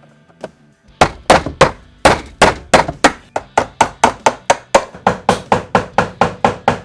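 Hammer striking a chisel in rapid, regular blows, about four a second, starting about a second in, as the chisel cuts into the car's dashboard to square off a round speaker hole.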